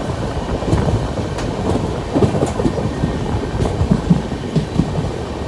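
Express train running along the track: a steady rumble of wheels on rail with irregular clacks and knocks over the rail joints.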